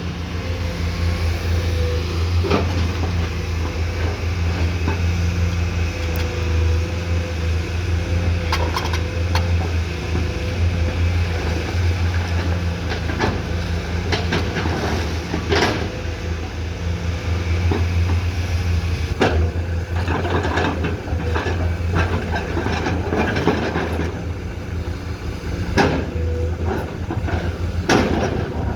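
Komatsu PC210 excavator's diesel engine running steadily, with scattered sharp knocks and scrapes from its bucket working the ground, the loudest about halfway through and near the end.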